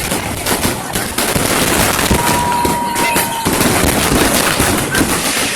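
Fireworks crackling in a rapid, unbroken stream of cracks, with a thin steady whistle for over a second about two seconds in.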